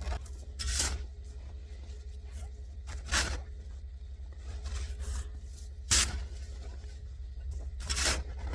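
Snow shovel scraping and scooping packed snow, four separate strokes two to three seconds apart, over a steady low rumble.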